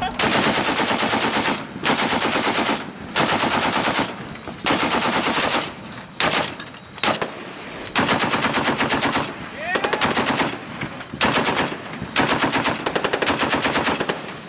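Machine-gun fire from a ship: long bursts of rapid automatic shots, each a second or two long, broken by short pauses.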